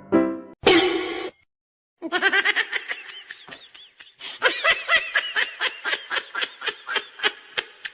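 A person laughing: a long run of rapid, high-pitched ha-ha syllables starting about two seconds in. It follows a short pitched sound and a brief noisy burst in the first second and a half.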